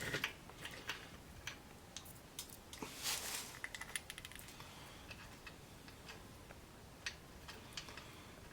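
Scattered light clicks and clinks of small metal parts being handled, with a short flurry of them about three seconds in.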